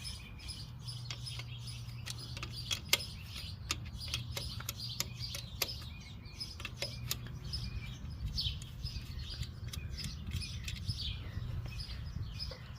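Irregular light metallic clicks and taps of a 10 mm wrench working the wire terminal on a tractor alternator, with birds chirping and a steady low hum underneath.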